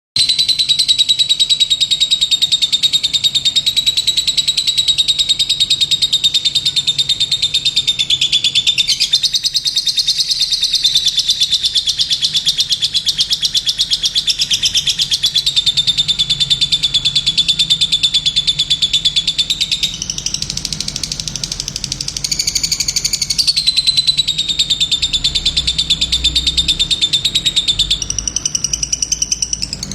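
Lovebird singing one long, unbroken rapid trill, the high chattering note shifting pitch a few times along the way. This is the continuous 'gacor' song of a bird in full voice.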